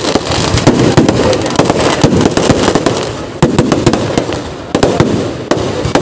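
A dense fireworks barrage: rapid, overlapping firework bangs and crackles, many reports a second, easing for a moment a little past halfway before picking up again.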